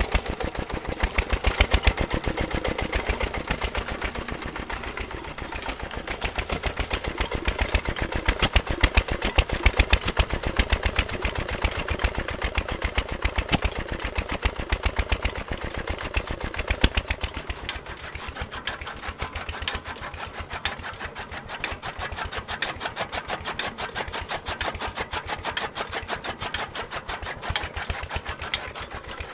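A Petter engine runs a belt-driven fodder chaff cutter that is chopping green fodder for animal feed, making a fast, even beat of knocks and clatter. The chopping noise eases about two-thirds of the way through, while the engine's beat carries on.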